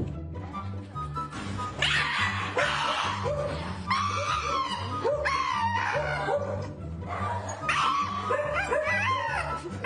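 A dog yelping and whining in repeated high, wavering cries that start about two seconds in, over background music with a steady beat.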